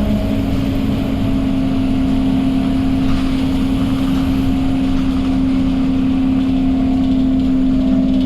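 Scania K230UB bus's five-cylinder diesel engine running under way, a steady low drone held at an even pitch.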